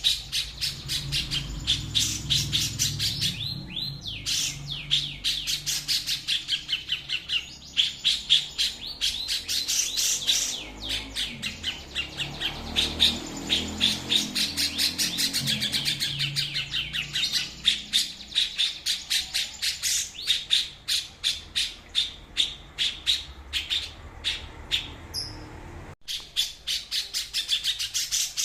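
A songbird singing a rapid, unbroken stream of short chirps and whistled notes, many a second. The song breaks off abruptly near the end and then starts again.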